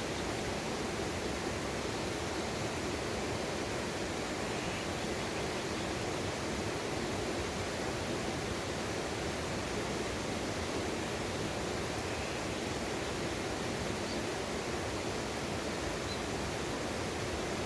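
Steady rush of water from a mountain valley stream, an even unbroken noise.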